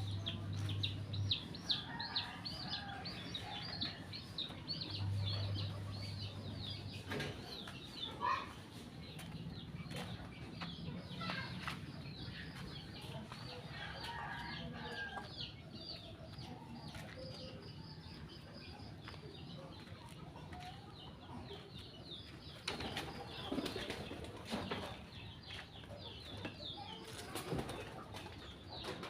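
Many small birds chirping rapidly and continuously, with scattered clicks and a low hum that comes and goes early on.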